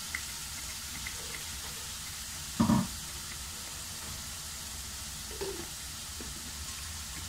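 Onion-and-tomato masala purée cooking in hot oil in a pot: a steady sizzle with a few small pops, and one loud knock about two and a half seconds in and a softer one near the end.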